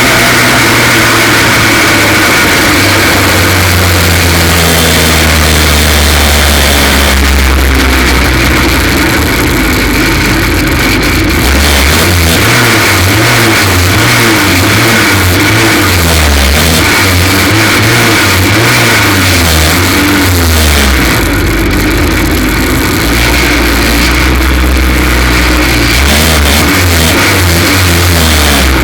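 F2 stock car engine racing, its pitch rising and falling over and over as it accelerates and lifts off, with a run of quick up-and-down changes midway. The engine is running with a misfire caused by a cracked spark plug.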